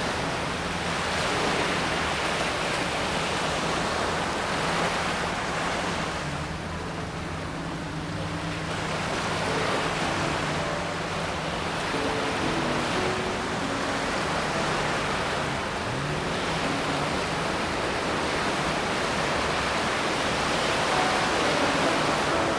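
Ocean surf washing in on a shallow sandy beach, a steady rush of breaking water that swells and eases every few seconds.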